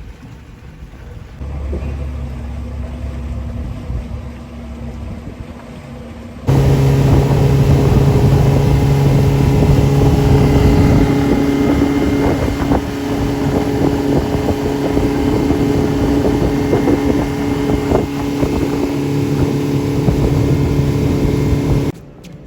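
An engine running steadily with a low, even hum, changing abruptly in level a couple of times. It is loudest from about six seconds in and drops off suddenly near the end.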